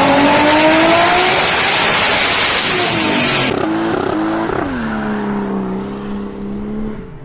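A car engine revving hard, its pitch climbing, with dense high-pitched noise over it. After an abrupt cut the revs fall about four and a half seconds in, and the engine runs steadily at a lower speed until it fades near the end.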